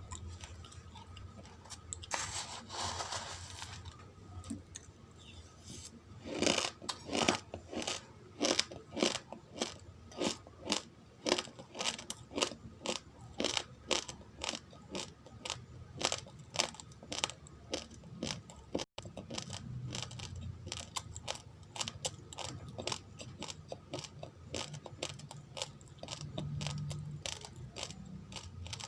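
A person chewing uncooked rice grains close to the microphone: a brief rustle a couple of seconds in, then crisp crunches about twice a second, giving way in the second half to softer, duller chewing.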